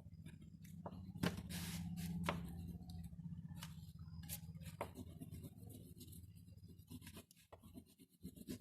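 Drawing strokes on paper: short scratchy rubbing strokes and light taps, with a low steady hum underneath that stops about seven seconds in.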